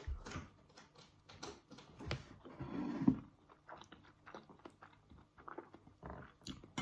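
Close-up chewing and biting of a couscous and tofu meal: irregular wet mouth clicks and smacks, with a sharper click about three seconds in.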